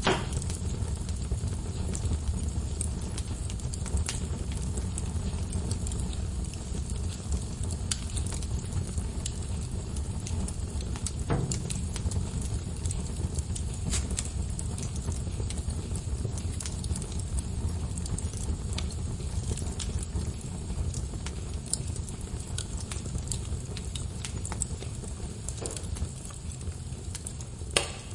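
Wood logs burning in a fireplace: a steady low rumble of flame with scattered crackles and pops, a sharper pop near the end.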